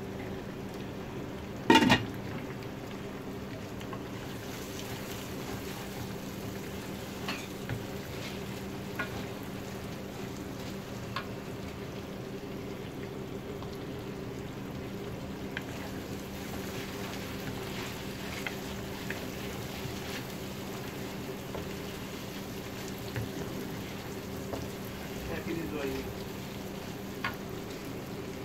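Chicken mince frying in a pan: a steady sizzle with scattered small ticks over a steady low hum. A sharp knock about two seconds in is the loudest sound.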